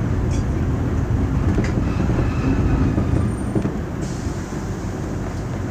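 Diesel express railcar on the move, heard from inside: a steady low rumble of engine and wheels on the rails, with a few light clicks. The rumble eases slightly about four seconds in.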